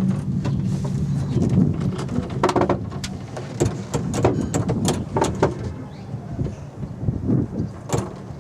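Cable car cabin rattling and clattering in motion, with a low hum and a string of irregular sharp knocks and clicks, the hum fading toward the end.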